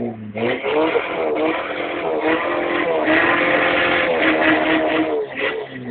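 Car engine revving up and down, its pitch rising and falling, heard from inside the car.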